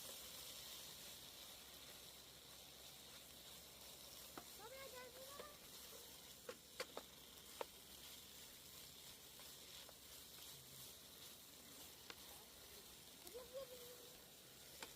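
Faint, steady sizzling of food frying, with a few sharp clicks a little after halfway.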